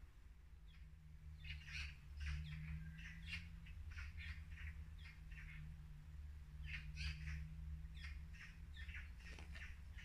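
A small songbird singing in two phrases of quick, short chirping notes, with a brief pause between them a little past the middle. A low steady hum runs underneath.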